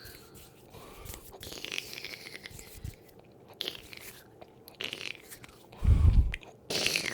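Brush bristles rubbing and sweeping across a microphone in scratchy, crackly strokes. A loud low thump comes about six seconds in.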